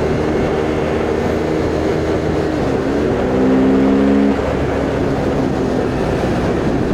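Husqvarna Svartpilen 401's single-cylinder engine running on the road, with wind rushing over the microphone. The engine note dips and climbs again about three seconds in and is loudest just after. About four seconds in it drops away, leaving mostly wind noise.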